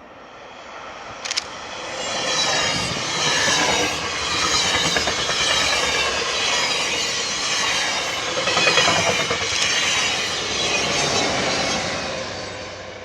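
A train passing close by, building up over a couple of seconds, with wheels clicking over the rail joints and some squeal from the wheels, then fading away near the end.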